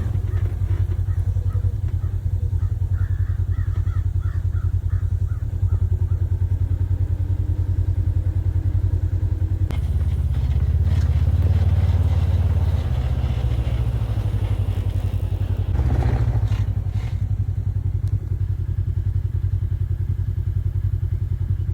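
A vehicle engine running steadily, a low even pulsing throughout, with a louder stretch of broader noise from about ten to seventeen seconds in.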